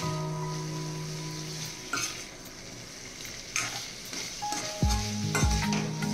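Food sizzling as it fries in a pan while a utensil stirs and scrapes, with sharp clinks against the pan, over background music; a deep bass line comes in near the end.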